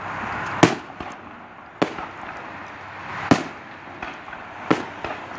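Aerial fireworks bursting overhead: four sharp bangs about a second to a second and a half apart, with a steady hiss between them.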